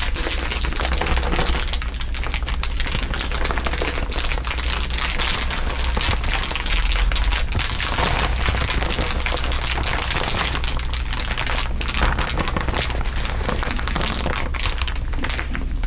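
Several layers of crinkling overlapping into a dense, continuous crackle of fine clicks.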